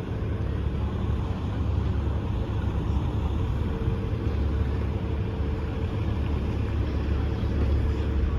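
Heavy truck engine running steadily, a low rumble.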